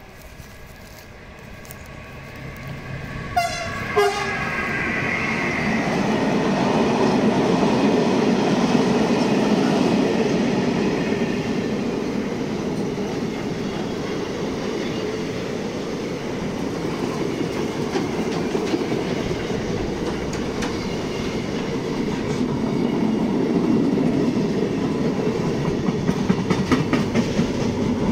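A locomotive gives a short horn blast about three and a half seconds in, then a long freight train rolls past close by: a steady rumble of car-carrier and covered wagons, with wheels clacking over rail joints near the end.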